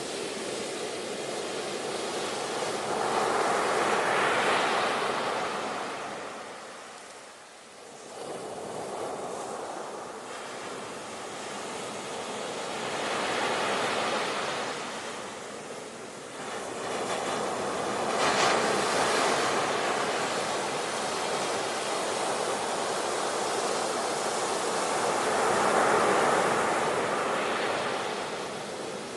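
Ocean surf: waves washing in and drawing back, the sound swelling and fading about four times, with a brief lull after the first swell.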